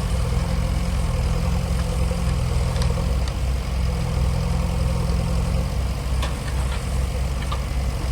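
Heavy diesel engine of a tractor or JCB idling with a steady low rumble.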